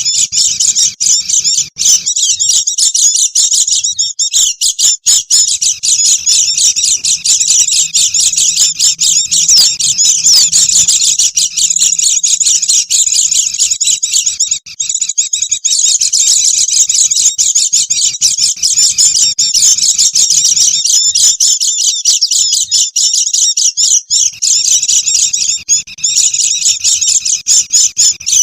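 White-eyes (pleci) chattering, a dense, nonstop, high-pitched twittering of many quick notes with only brief breaks.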